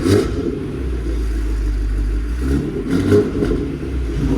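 A performance car's engine running loud through its exhaust, with rev surges about two and a half and three seconds in.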